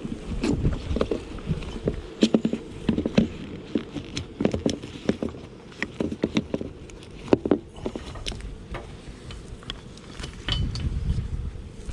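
Irregular small knocks, clicks and rustling of hive gear being handled and feet moving between hives, with bursts of low rumble.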